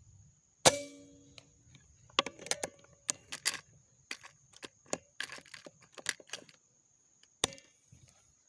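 A PCP air rifle fires a single sharp shot that rings briefly, then a quick run of metallic clicks and clacks comes from handling the rifle, with one more sharp click near the end.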